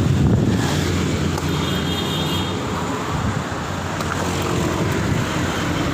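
Motor vehicle engine running steadily nearby, with a low hum over street traffic noise.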